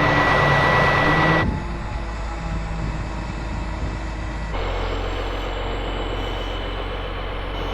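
Engine of the lifting machine running steadily while it hoists a roof panel, with a steady whine; the sound drops in level abruptly about a second and a half in and changes again about four and a half seconds in.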